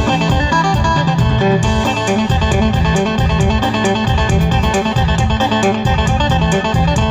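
Isan phin music: a plucked Thai lute playing a quick melody over a bass line and a steady beat.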